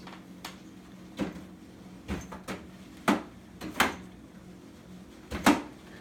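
A cat pawing and scratching at its litter box: about eight short, sharp scrapes or knocks at irregular intervals, with a faint low steady hum underneath.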